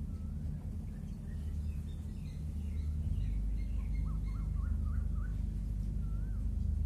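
Small birds chirping and singing, with a quick run of about five rising-and-falling whistled notes around the middle, over a steady low rumble that grows louder about three seconds in.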